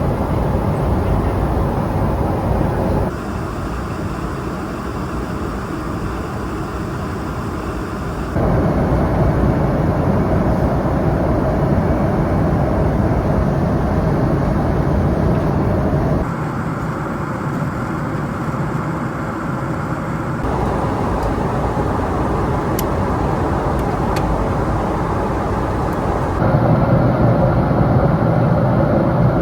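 Steady in-flight cabin noise of a Boeing 777-300ER airliner at cruise: a dense, even rush of engine and airflow noise, heaviest in the low range. Its loudness and tone jump abruptly about five times.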